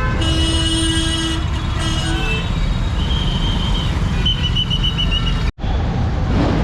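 Street traffic with a steady low rumble. A vehicle horn honks for about a second near the start, followed by high-pitched beeping, a quick run of short beeps. The sound cuts out for an instant about five and a half seconds in.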